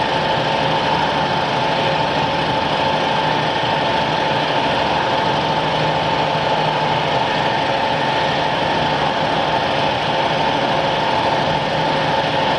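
BMG-2040 CNC router's spindle running steadily while cutting aluminium composite panel: a constant high whine over an even cutting hiss.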